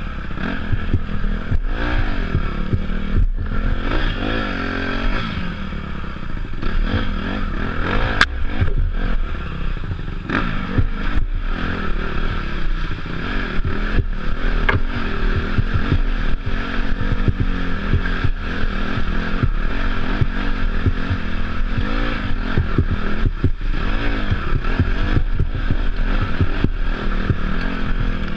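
Off-road dirt bike engine running and revving up and down as it is ridden over rough ground, with frequent knocks and rattles from the bike.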